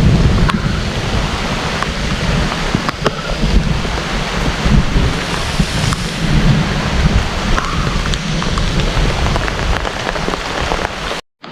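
Heavy rain pouring down, many close drops ticking on surfaces over a dense hiss, with a deep rumble underneath. The sound cuts out suddenly near the end.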